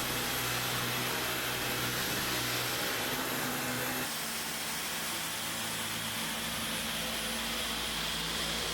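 Dyson V15 Detect cordless stick vacuum running, a steady whooshing whir whose low hum shifts slightly about four seconds in.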